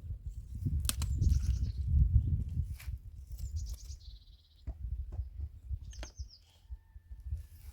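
Birds calling: short series of quick, high chirps that fall in pitch, repeating every couple of seconds, over a low rumble that is loudest in the first half.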